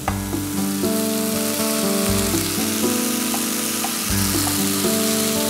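Background music of held chords over the sizzle of onions and tomatoes frying in oil in a pot.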